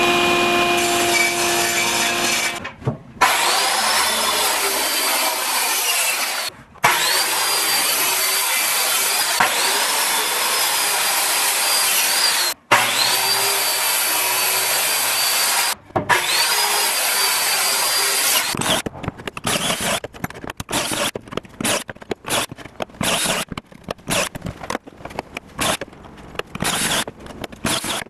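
A power saw cutting wood in a series of cuts, each beginning with the motor's high whine rising up to speed and holding steady through the cut. Near the end it gives way to short, choppy bursts of tool noise.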